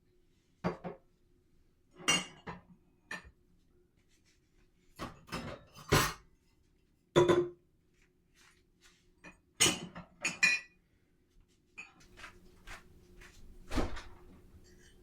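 Dishes and cutlery being handled in a kitchen: irregular clinks and knocks of crockery and utensils set down and moved, some ringing briefly. A faint steady hum rises slightly near the end.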